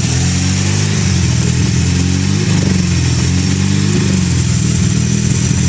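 Mazda RX-7 rotary engine idling steadily with a slight waver in pitch. The owner puts its unsettled idle down to a vacuum leak he cannot find.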